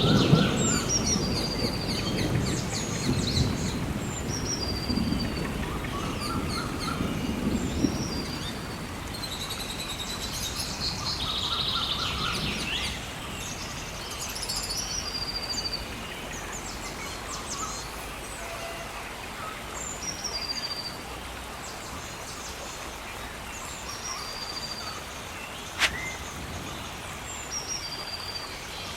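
Rainforest ambience: many birds calling, with short repeated whistles and chirps overlapping throughout. A low rumble fills the first several seconds and fades out, and a single sharp click comes near the end.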